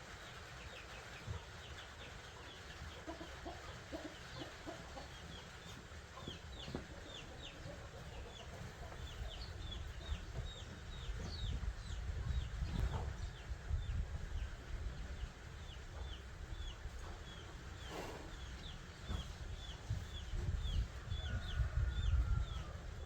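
Birds chirping: a long run of short, high, falling chirps, several a second, with a longer call near the end, over a low rumble.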